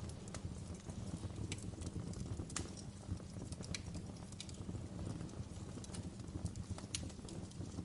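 Fire crackling: a steady low rumble of burning flames with sharp crackles and pops at irregular intervals.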